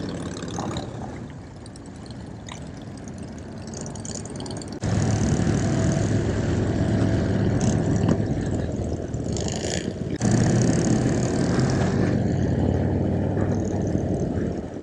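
Motorcycle engine running with a low, steady rumble. It comes in suddenly and loud about five seconds in, drops briefly around ten seconds, then picks up again.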